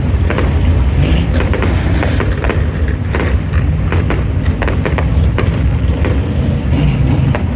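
Race car engines running at the speedway: a loud, steady low rumble with scattered sharp clicks and knocks over it.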